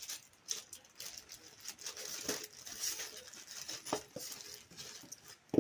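Packaging and small parts being handled during an unboxing: plastic crinkling and rustling with scattered light clicks, and a sharp knock near the end.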